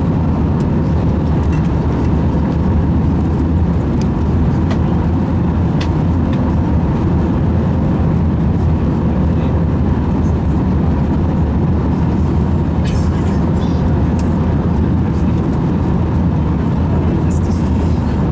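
Airbus A320 cabin noise in flight: a steady roar of the engines and the airflow over the fuselage, heavy in the low end, with a faint steady hum and a few light clicks.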